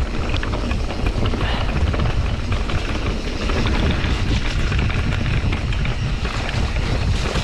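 Wind rushing over the microphone of a mountain bike rider on the move, with tyres rolling on a dirt trail and a steady scatter of small rattles and clicks from the bike over rough ground.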